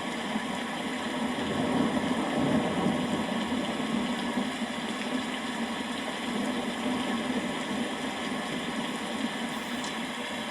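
Steady rain, with a low rumble of thunder swelling briefly about two seconds in.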